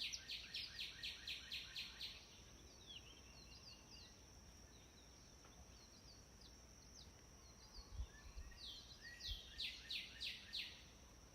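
A songbird singing a fast run of descending whistled notes, about five a second, once at the start and again about three-quarters of the way through. Between and under the song runs a steady high-pitched drone.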